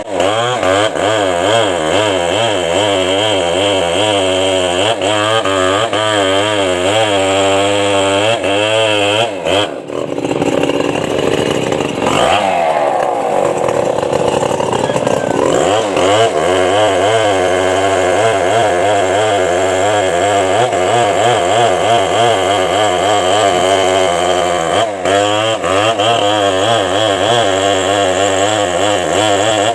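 Chainsaw revving, its pitch swinging up and down in quick repeated waves. There is a brief dip about ten seconds in and a higher, noisier stretch a couple of seconds later.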